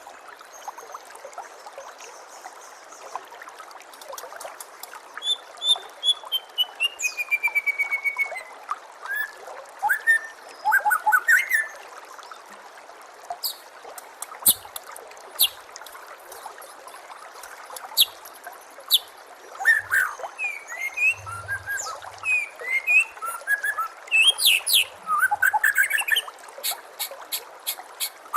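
White-rumped shama (murai batu) singing a varied string of whistled phrases, sharp chips and short descending runs of notes, over a steady trickle of running water.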